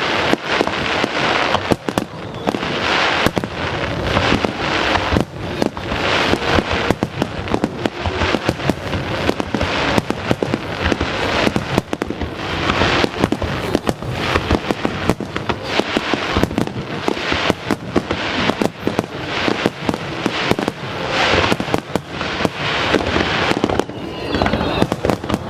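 Aerial fireworks display: a continuous barrage of shell bursts and crackle, many reports a second with no pause.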